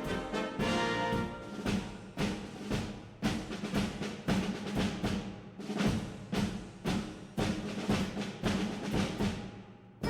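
Orchestral music with brass and heavy timpani hits, the drum strokes coming every half second or so; it fades down near the end.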